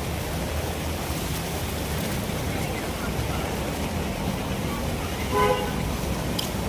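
Steady street traffic with a low engine rumble, and one short vehicle horn toot about five seconds in.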